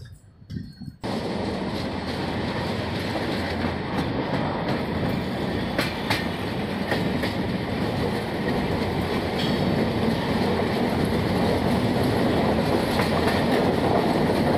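Indian Railways AC express coaches running over the track, heard from the open doorway: a steady rumble of wheels on rail with a few sharp clicks. It starts abruptly about a second in and grows slightly louder as the train picks up speed after departure.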